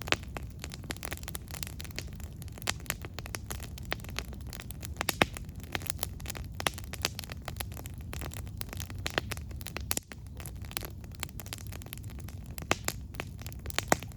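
Wood campfire crackling, with frequent irregular sharp pops over a steady low rush of burning.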